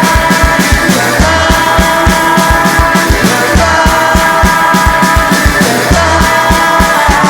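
A rock band playing: drums keeping a fast steady beat, about four hits a second, under sustained chords.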